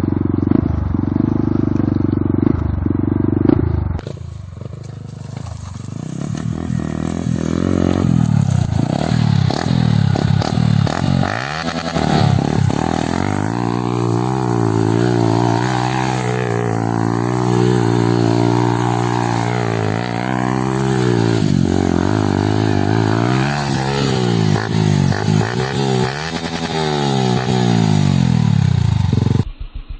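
Yamaha R15 150cc motorcycle engine, converted to a dirt bike, revving as it is ridden, its pitch rising and falling again and again with throttle and gear changes. The sound changes abruptly about four seconds in and cuts off just before the end.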